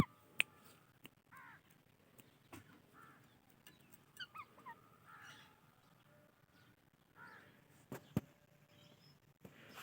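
Indian ringneck and alexandrine parakeets giving short, scattered chirps and squawks that slide in pitch, with a couple of sharp clicks in between.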